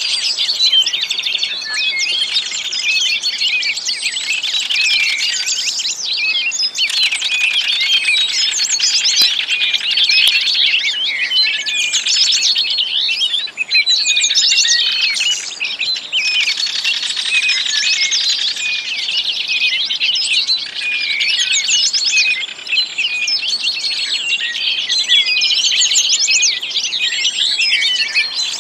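Many small birds chirping and twittering at once, a dense, continuous chorus of high, overlapping calls.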